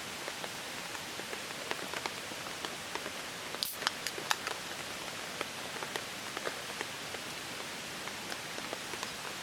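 Steady rainfall with many scattered drops tapping, and a few louder drop hits near the middle.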